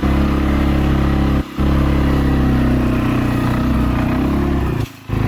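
CFMOTO CForce 400 ATV's single-cylinder engine running steadily under load as the machine drives through snow. The engine sound cuts out briefly twice, about one and a half seconds in and again near the end.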